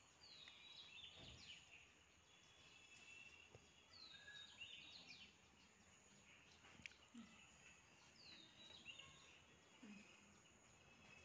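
Near silence with faint bird calls in the background: a short chirp that falls in pitch, repeated about every four seconds.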